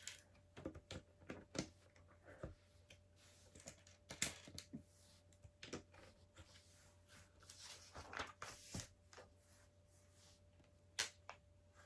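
Faint, irregular clicks and taps of plastic LEGO bricks being handled and pressed together.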